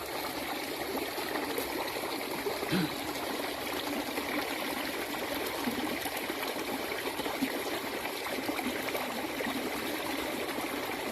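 Water flowing steadily, a constant trickling, rushing stream of rain runoff.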